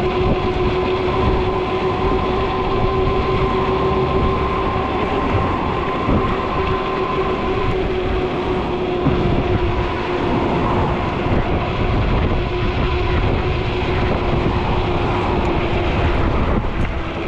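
Ecotric folding fat-tire e-bike's hub motor whining at a steady pitch under power, over heavy wind rumble on the microphone while riding.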